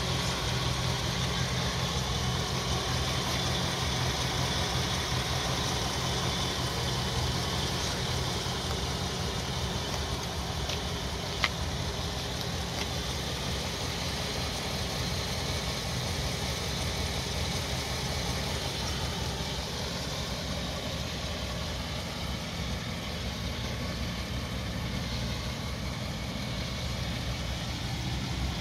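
Chevrolet 409 cubic-inch V8, the matching-numbers 340-horsepower engine of a 1963 Impala SS, idling steadily. A single sharp click comes about eleven seconds in.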